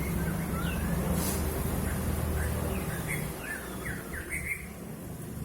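Poksay hongkong (masked laughingthrush) giving short whistled chirps and slurred notes, with a quick run of calls in the second half. A steady low rumble runs beneath and fades partway through.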